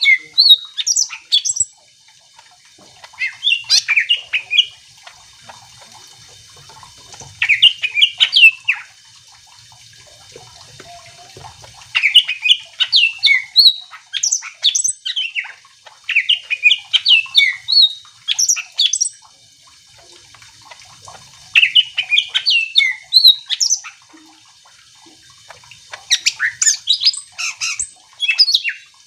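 Cucak ijo (green leafbird) in full song: bouts of rapid, varied whistled and chattering notes, each lasting one to three seconds, repeated about every two to four seconds.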